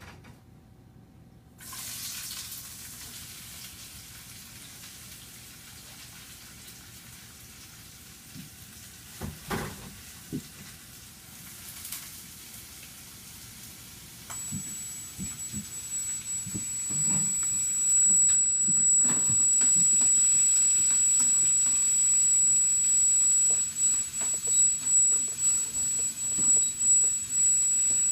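TBS camera gimbal giving off an abnormal, very high-pitched steady whine that starts about halfway through and does not stop. Light knocks and handling clicks are scattered throughout over a low hiss.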